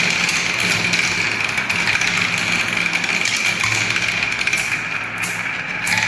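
Many small balls rolling and clattering continuously down a spiral marble-run track, a dense rapid rattle, with a steady low hum underneath.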